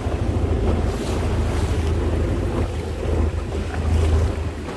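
Longtail boat engine running with a steady low drone, with wind buffeting the microphone and water noise around the boat.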